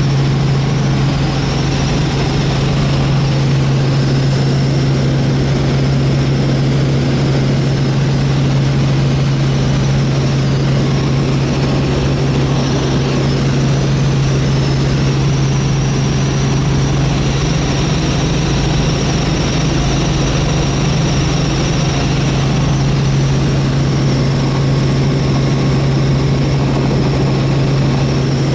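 Helicopter in flight heard from aboard: steady engine and rotor noise with a strong low hum and a thin high whine above it, unchanging throughout.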